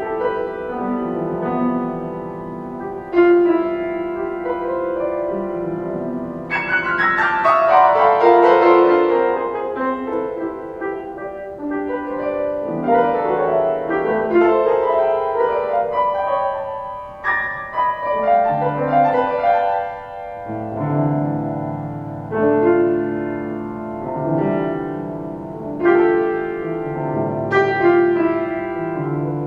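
Solo piano playing slow, sustained chords under a melody, with a brighter spray of high notes about six seconds in.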